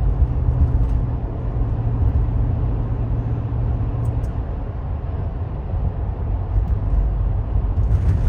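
Car engine running with road rumble while driving, a steady low drone.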